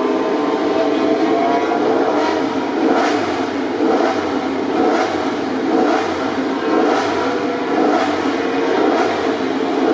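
MotoGP racing motorcycle engines running at the circuit: a dense, steady, loud engine noise with a short sharp surge about once a second.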